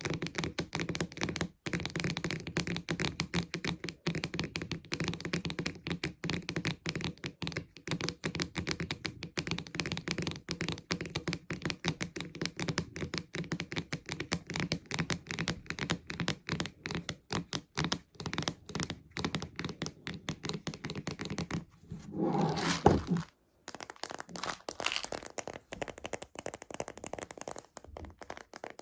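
Rapid, dense tapping and clicking on a plastic Choco Baby candy container, with a brief louder rattling burst about three quarters of the way through, after which the taps come more sparsely.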